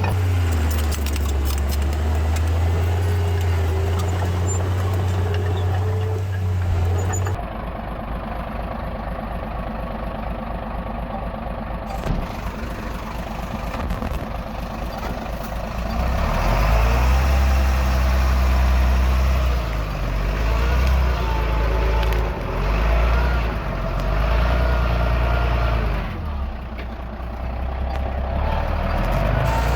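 Diesel engines of a Komatsu D31P bulldozer and dump trucks running under load, the sound changing abruptly about seven seconds in and the engine pitch shifting as the machines work.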